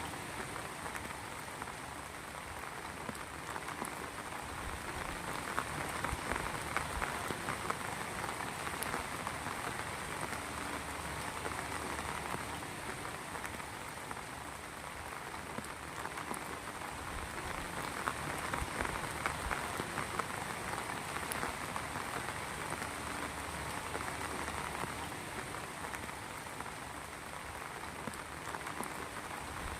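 Heavy rain falling steadily, a dense patter of drops that swells and eases a little.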